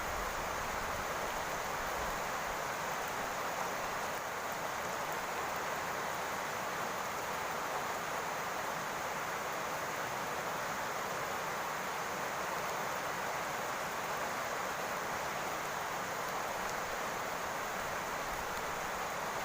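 Steady rain falling on a roof, an even hiss that does not change.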